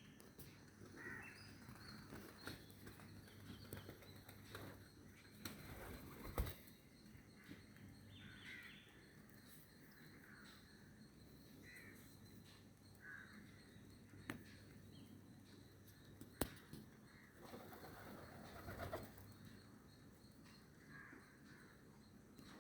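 Faint birds outside: short, scattered calls every second or two, with a few sharp clicks and a brief louder rustle near the end of the calls.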